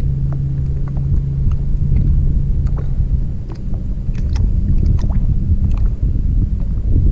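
Wind buffeting the microphone in a steady low rumble, with scattered small clicks and knocks over it.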